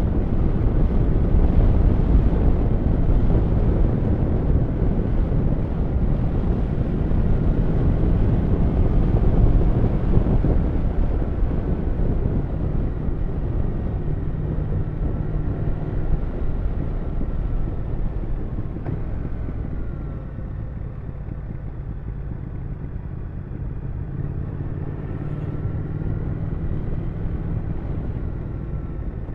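Triumph Thruxton 1200 RS parallel-twin engine running while the motorcycle is ridden, with rushing wind. It is loudest in the first half and eases off about two-thirds of the way through.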